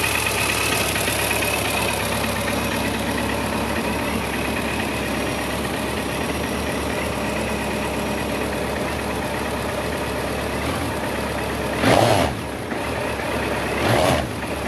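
Suzuki GSX1400's inline-four engine idling steadily, then revved in two short throttle blips near the end.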